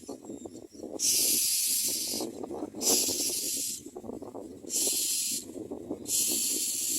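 Hungry common myna nestlings giving harsh, hissing begging calls: four rasping bursts, each under a second, repeated about every one and a half seconds.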